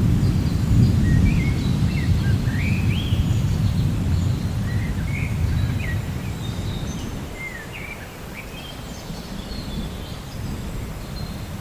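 Thunder rumbling low and rolling, loudest in the first few seconds and fading away, over steady rain. Small birds chirp repeatedly throughout.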